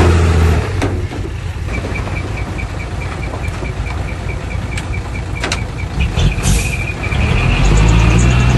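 Heavy diesel earthmoving machinery running, its engine loudest at the start and again near the end. In between comes a rapid high-pitched pulsing, about four pulses a second, with a few sharp clicks and a short hiss about six and a half seconds in.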